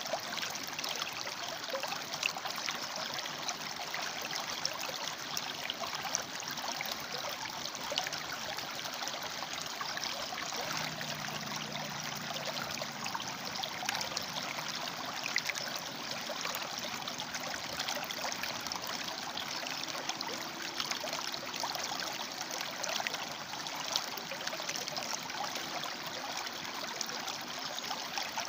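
River water flowing and splashing among rocks: a steady rushing with many small splashes.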